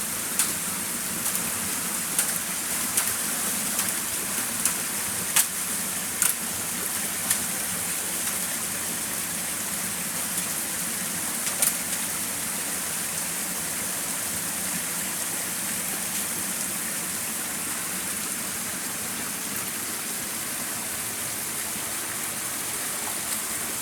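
Stream water flowing and splashing steadily, with scattered sharp ticks or small splashes, mostly in the first half.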